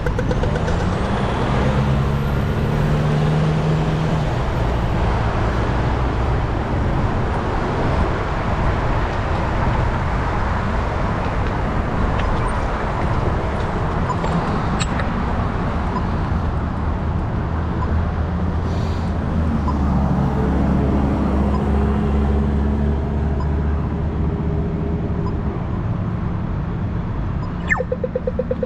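Road traffic heard from a bicycle: a steady rush of tyre and engine noise from passing cars and larger vehicles. Engine hum swells as vehicles go by, about a second in and again around twenty seconds in.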